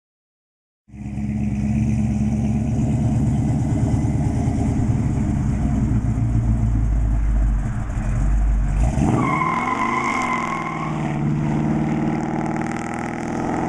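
A 1969 Dodge Super Bee's fuel-injected 440 V8, breathing through headers and Flowmaster mufflers, starts sounding about a second in with a deep, loud rumble. About nine seconds in the engine note rises and falls and the deep rumble drops away.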